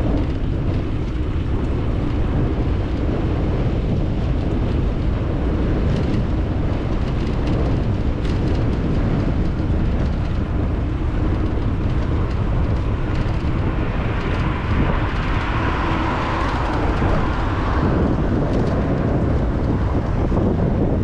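Steady wind rush and tyre noise of a moving bicycle, picked up by an action camera's microphone, heaviest in the low end. About two-thirds of the way through, a higher hiss swells for a few seconds and fades.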